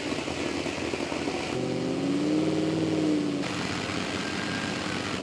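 Trophy truck engine running hard with rough, noisy road and wind sound; about one and a half seconds in, the engine note climbs and then falls again over roughly two seconds.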